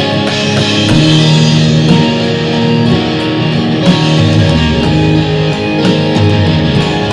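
Live instrumental jam: electric guitar holding sustained notes that change about once a second, over drums and synth.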